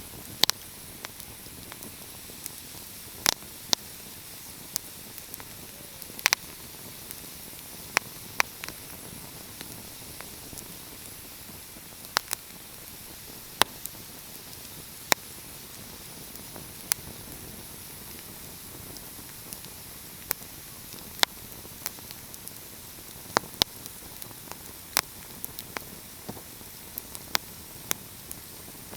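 Wood fire crackling: irregular sharp pops and snaps, one every second or so, over a steady soft hiss.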